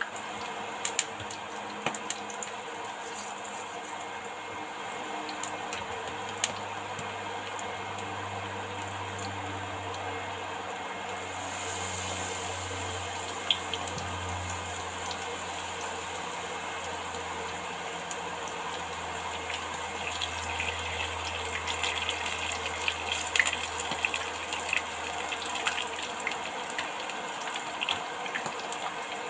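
Beetroot leaves frying in hot oil: a steady sizzle with many small crackles, which grow busier about twenty seconds in.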